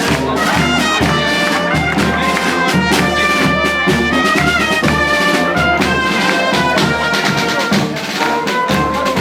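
Brass band playing a lively tune, with sustained horn notes over a steady bass beat of about two pulses a second.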